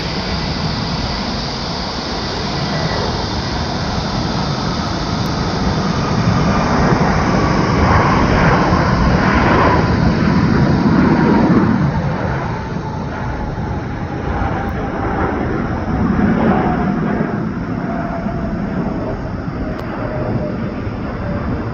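Jet airliner passing close by. The engine noise builds to a peak in the middle and then eases, while a whine falls slowly in pitch as the aircraft goes by.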